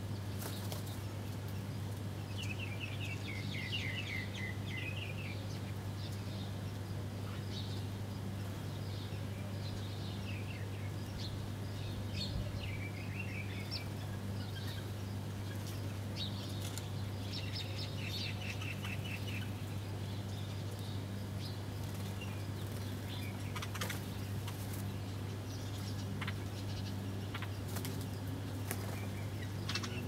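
Small birds chirping, with two short rapid trills, one a few seconds in and one past the middle, and scattered single chirps and clicks, over a steady low hum.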